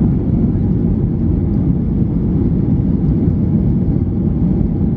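Cabin noise inside a Boeing 737-800: a loud, steady low rumble of its CFM56 jet engines and the airflow, heard from a seat behind the wing.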